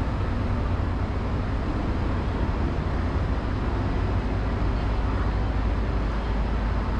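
Steady low rumble of a train with a hiss over it, unchanging and without distinct knocks or horns.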